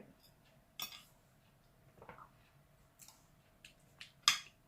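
Quiet eating sounds: a few scattered short clicks and mouth noises of chewing and utensils, with one sharper click about four seconds in.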